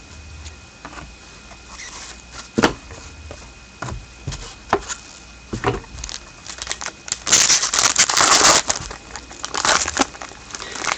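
Trading cards and their packaging being handled: scattered clicks and taps, then a couple of seconds of dense crinkling past the middle, as of a card pack wrapper.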